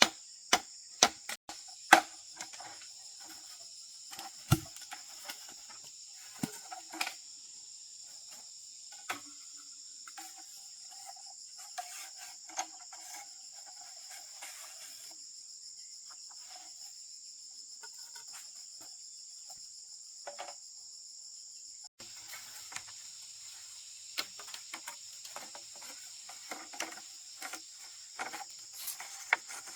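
A steady high-pitched insect chorus, with sharp knocks of hand work over it: a quick run of strikes in the first two seconds, then scattered knocks and clatter.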